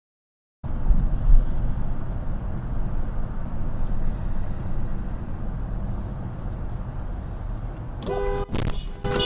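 Steady rumble of a car on the road, with a car horn honking about eight seconds in and again just before the end.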